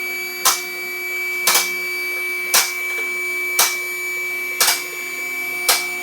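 Vehicle lift raising a car: its electric hydraulic pump motor whines steadily while the safety locks click about once a second as the carriage passes each lock position.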